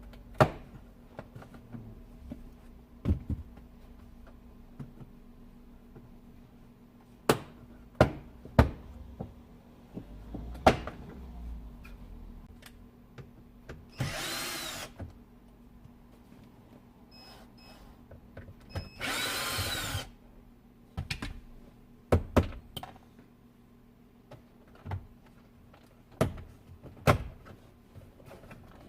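A cordless power drill-driver runs in two short bursts of about a second each, its whine rising then falling, as it backs out screws during removal of a car audio unit. Scattered clicks and knocks of tools and parts being handled come between the bursts.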